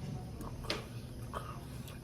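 Soft eating sounds from a person chewing a meal, with a few faint clicks spread through the two seconds.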